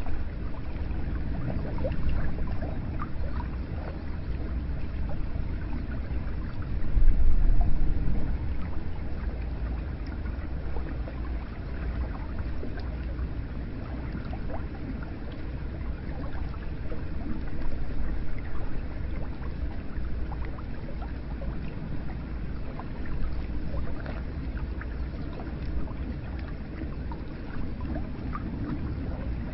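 Hot spring water pouring and trickling into a bath: a steady splashing flow with gurgles and small drips, swelling louder for about a second some seven seconds in.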